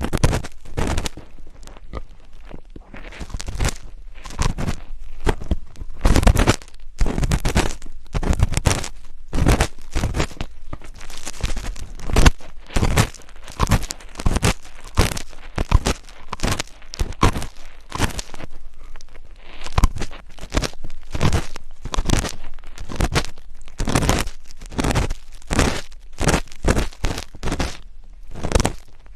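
ASMR scratching and rubbing right on the microphone: a steady run of irregular, crunchy scrapes, about two or three a second.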